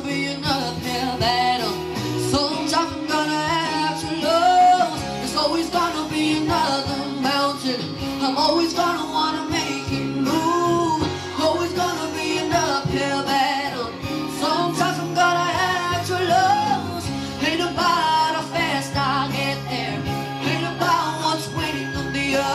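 A solo singer performing a pop ballad over backing music, the voice sliding and bending through long runs between notes.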